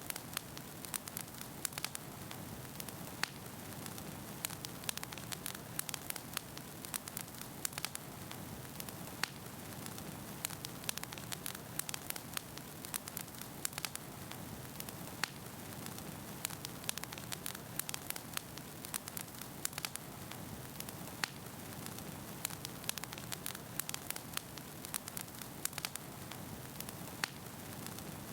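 Wood fire burning in a fireplace, with a steady hiss of flame and frequent sharp, irregular crackles and pops from the burning logs.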